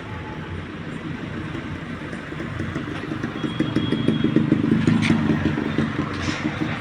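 A vehicle engine running nearby, growing louder from about three seconds in and easing off near the end, as if a vehicle passes close by.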